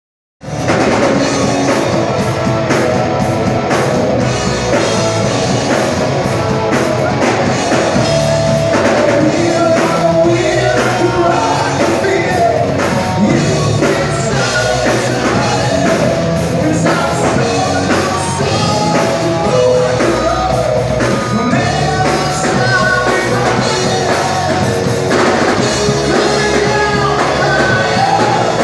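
A rock band playing live, with singing over electric guitar and drum kit, starting about half a second in.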